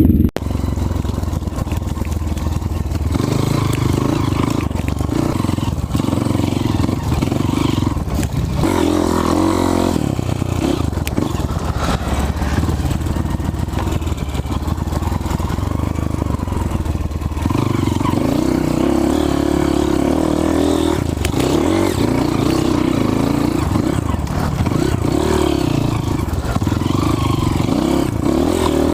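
Dirt bike engine running under way, revving up and down as the throttle is worked, with rattling and clatter from the bike. It comes in suddenly at the start.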